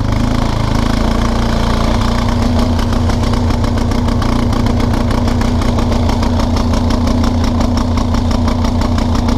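Kawasaki Prairie 300 ATV's single-cylinder four-stroke engine running steadily, its firing rhythm growing more even after a couple of seconds. With the fuel turned off, it runs on what is left in the float bowl of a carburetor whose float is thought to be stuck open, flooding it rich.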